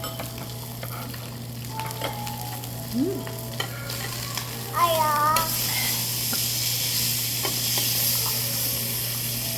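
Beef sizzling as it cooks over a steady low hum, the sizzle growing louder about halfway through. Two brief voice sounds break in, one near the middle.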